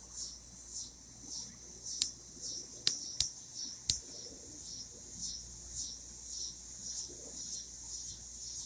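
Steady high-pitched chorus of insects, pulsing continuously, with a few sharp clicks about two to four seconds in.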